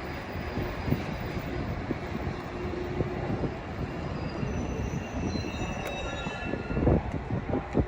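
Metra commuter train running by with a steady rail rumble, and faint high wheel squeal coming in past the middle. A couple of louder thumps near the end.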